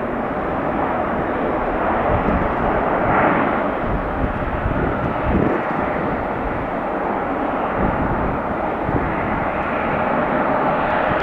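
Jet engine noise from a Lufthansa Airbus A340-300, its four turbofan engines giving a steady, loud rush that swells slightly over the first couple of seconds.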